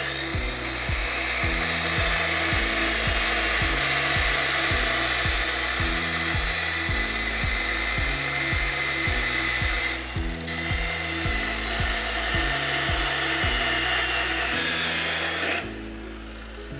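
A power tool running steadily under load for about fifteen seconds, easing off briefly about ten seconds in, over background music with a steady bass line.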